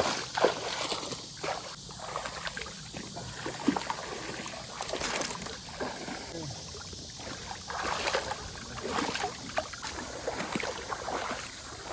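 Legs wading through shallow creek water, with irregular splashing and sloshing in uneven steps.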